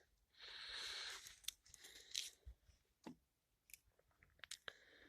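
Faint handling sounds at a car door mechanism being greased by hand: a short soft rustle in the first second, then scattered small clicks and crackles.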